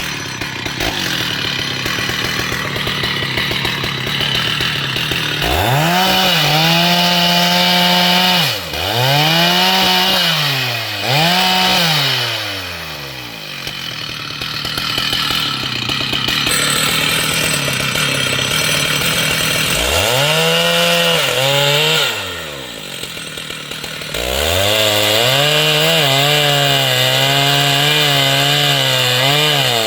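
Two-stroke chainsaw revving: the engine jumps to full throttle and drops back to a lower speed several times, then is held at high revs with a slightly wavering pitch for the last few seconds.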